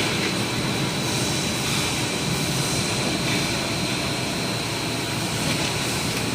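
Small colour-test film-blowing machine running: a steady machine noise with a rush of air and a thin, steady high whine.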